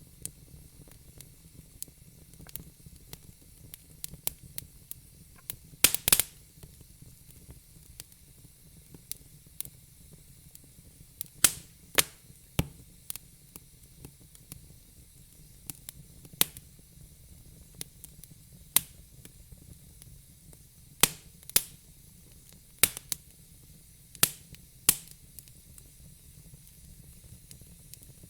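Fire crackling: irregular sharp pops and snaps, a dozen or so of them loud, over a faint steady low hiss.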